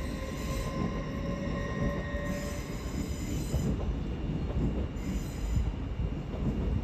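A train running along the platform track, its wheels rumbling steadily, with a high metallic squeal from the wheels on the rails that comes and goes in about three spells.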